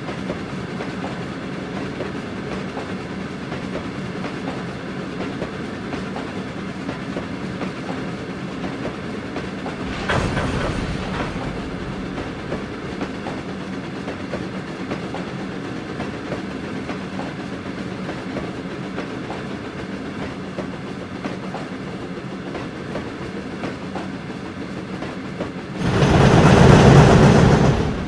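A train running along the track, with the steady rumble and clickety-clack of carriage wheels over the rails. There is a brief louder rush about ten seconds in and a louder one, about two seconds long, near the end.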